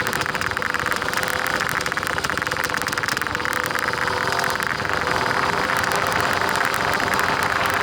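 50cc dirt bike engine running steadily.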